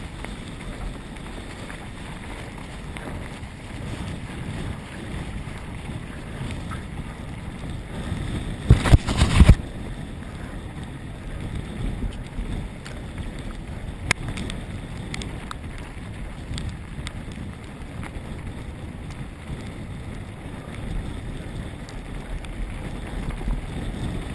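Outdoor wind rumbling on the microphone, with a loud burst of noise lasting under a second about nine seconds in and a single sharp click about fourteen seconds in.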